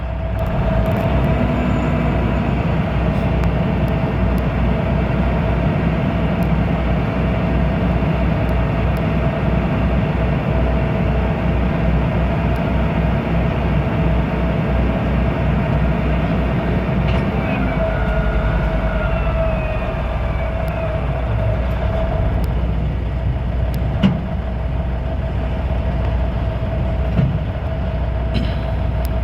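Diesel engine of a 1996 Kenworth tandem-axle dump truck idling steadily, with a couple of short knocks later on.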